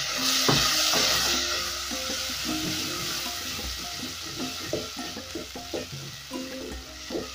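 Chopped tomatoes and tomato paste sizzling in hot oil, loudest in the first second or so after they hit the pan and then settling. A spatula stirs them around the aluminium pot with short scrapes and knocks.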